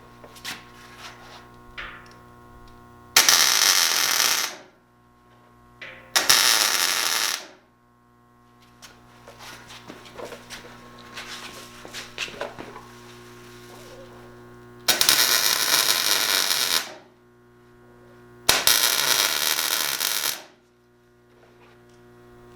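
MIG welder laying four short tack welds on a tube frame. Each is a harsh, crackling hiss of one to two seconds that starts and stops abruptly, with a steady electrical hum underneath.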